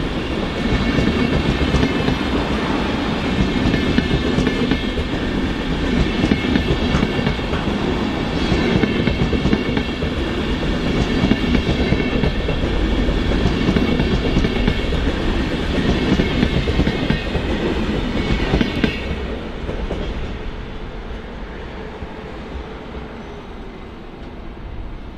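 Intercity passenger coaches rolling past, the wheels clattering over the rail joints with a steady rumble and high ringing tones above it. The sound fades away from about two-thirds of the way in as the train moves off.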